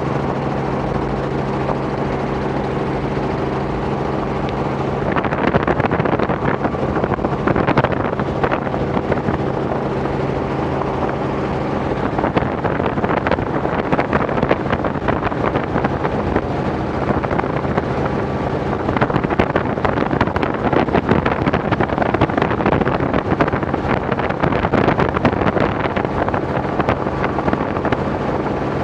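Robinson R44 helicopter in cruise flight: the steady drone of its engine and rotors. From about five seconds in, a rough, gusting wind noise on the microphone partly covers it.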